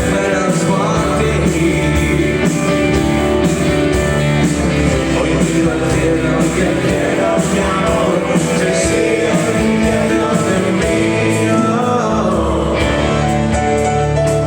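Live rock band playing an instrumental stretch of a song: guitar over bass and drums with cymbals, and no clear lead vocal.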